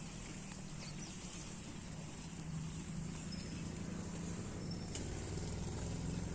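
A steady low engine hum, growing slightly louder about two and a half seconds in, with a few faint high chirps.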